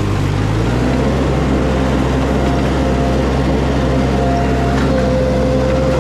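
Wacker Neuson mini skid steer's engine running steadily at working throttle, with a steady whine over it. The engine note dips briefly near the start, then recovers.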